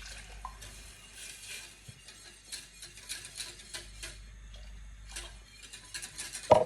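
A utensil clinking and scraping against a saucepan as a thin pan-juice gravy is stirred, with one louder knock near the end.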